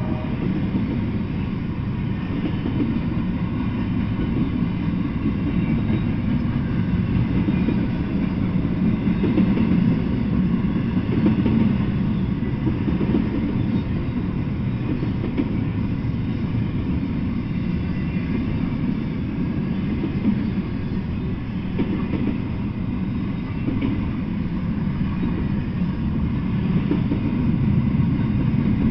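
Double-stack intermodal freight train rolling past, its well cars' wheels on the rails making a steady low rumble.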